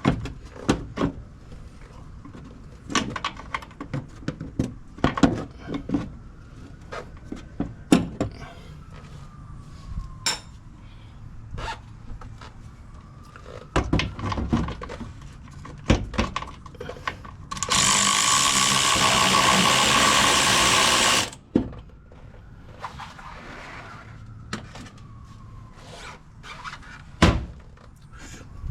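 Scattered metal knocks and clanks of tools at work on a truck's strut assembly. Near the middle, a power tool runs in one loud burst of about three and a half seconds.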